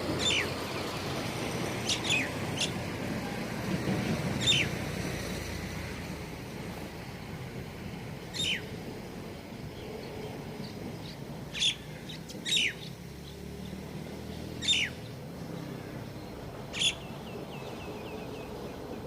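Small birds giving short, sharp chirps that each sweep quickly downward in pitch, about ten of them at irregular intervals, over a faint low background rumble.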